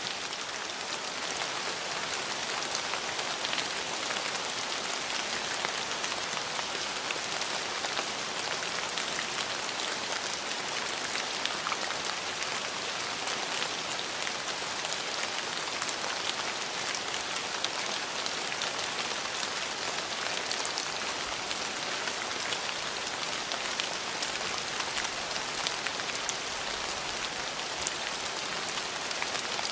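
Steady rain falling, an even hiss with many small drop ticks spattering on hard surfaces.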